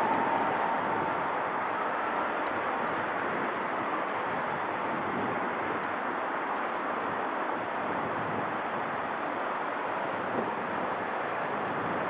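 Jet airliner engines running, a steady rushing noise that eases slightly over the first couple of seconds and then holds level.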